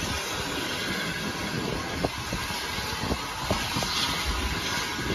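Green heritage railway coaches rolling slowly past the platform, a steady rumble with a few sharp clicks of the wheels over rail joints between about two and four seconds in.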